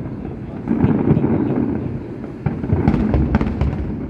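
Fireworks display: shells bursting in deep booms about a second in and again from about two and a half seconds, with sharp crackles among the later bursts.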